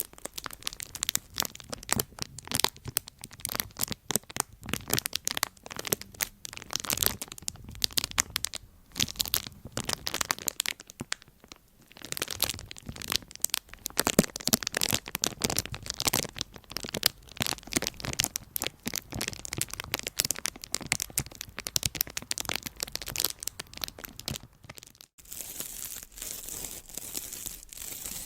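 Close-miked crinkling and crackling of something being handled, dense irregular clicks with quieter pauses now and then. About 25 seconds in it breaks off and a steadier, hissier crackling texture follows.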